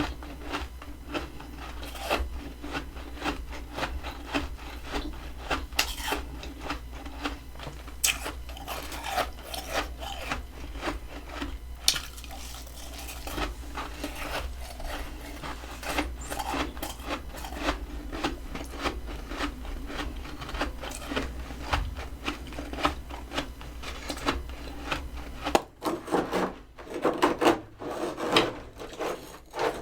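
Close-up crunching of packed freezer frost: a dense run of small crackles and rasps, with a few louder crunches near the end.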